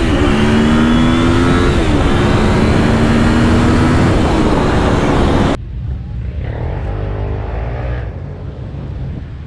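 Honda VFR750's V4 engine pulling hard with heavy wind noise. Its pitch drops twice, right at the start and about two seconds in, as it shifts up, then holds steady. About five and a half seconds in it cuts off abruptly to a much quieter low rumble.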